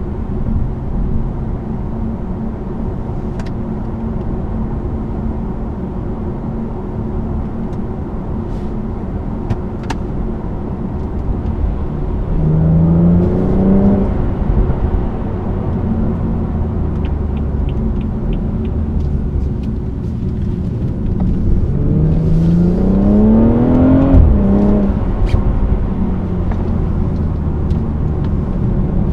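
BMW 340i's turbocharged 3.0-litre inline-six with road noise, heard from inside the car at a steady cruise. Twice the engine pitch climbs under acceleration: a short climb about halfway through, and a longer climb near the end that drops sharply at an upshift.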